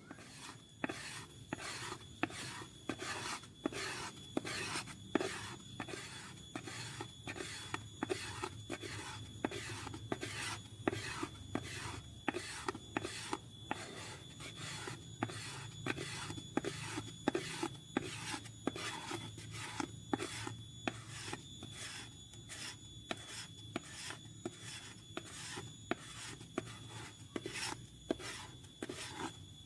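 Knife blade scraping along bamboo to shave off fine tinder, in even strokes about two a second that stop near the end.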